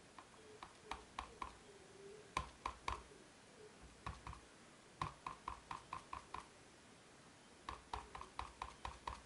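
Bursts of quick, light taps, about four or five a second, stopping and starting several times: an ink pad being dabbed onto a photopolymer stamp to ink it.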